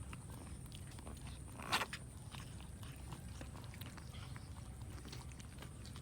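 Cats eating rice: many small chewing clicks over a low steady hum, with one louder short noise a little under two seconds in.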